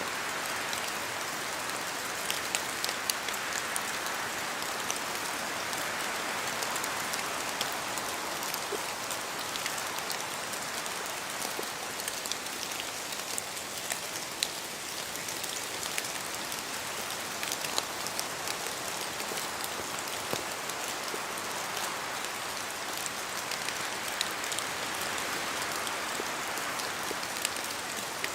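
Steady rain falling through spruce forest, a constant hiss with many separate drops pattering and ticking from the trees.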